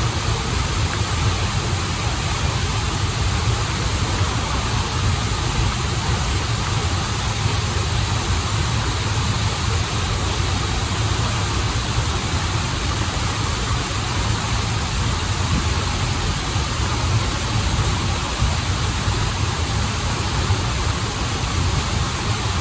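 Waterfall and flowing stream water running steadily: an even, unbroken rush with a deep low rumble underneath.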